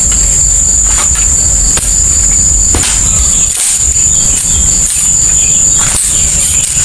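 Heavy rain with a steady rumble and scattered sharp drop ticks, under a continuous high-pitched drone of insects.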